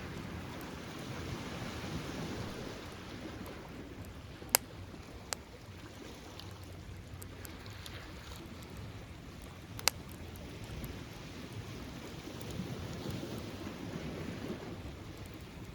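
Surf washing on a beach in slow swells, with a bonfire crackling: three sharp pops, two close together near the middle and one louder one later.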